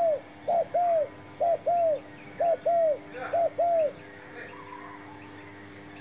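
Spotted dove cooing in a repeated phrase of a short note followed by a longer one, about one pair a second, stopping a little before four seconds in.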